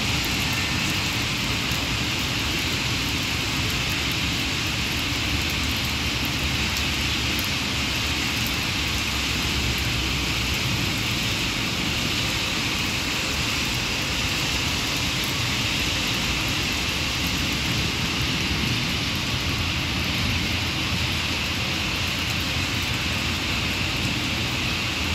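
Heavy rain falling, a steady hiss that doesn't let up.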